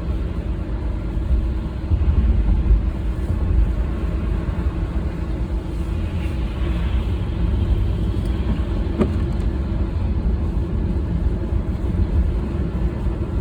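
Car being driven, heard from inside the cabin: a steady low rumble of engine and tyres, with a brief hiss about six seconds in and a single small click a little later.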